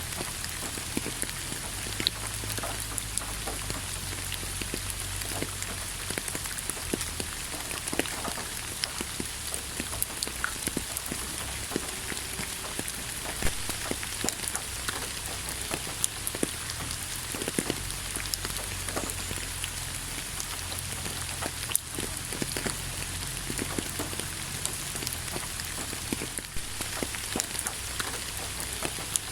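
Steady rain falling on a surface, an even hiss with many individual drops tapping and splattering close by.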